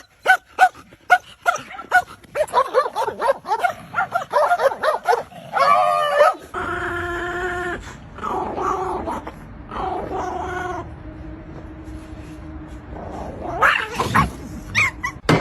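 A dog vocalizing: a quick series of short, high yips, then longer drawn-out whining calls, with a louder rising call near the end.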